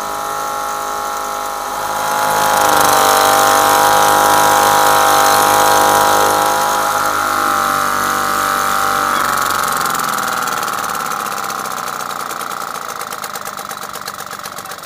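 1978 British Seagull Featherweight 1.5 hp single-cylinder two-stroke outboard motor running. About two seconds in it revs up and gets louder, holds, then slows and drops away over the last few seconds, its beat turning uneven.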